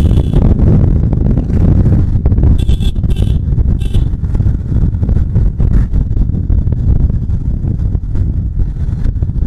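Bajaj Pulsar 150 motorcycle on the move, its engine and road noise heard as a loud, steady low rumble with wind buffeting the microphone. A few short high-pitched sounds come about three to four seconds in.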